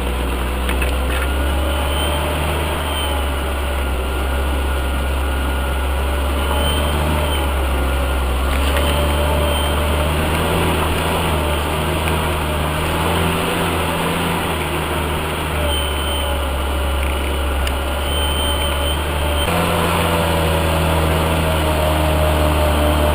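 UAZ off-road vehicle's engine running steadily under way, its pitch holding and shifting a few times.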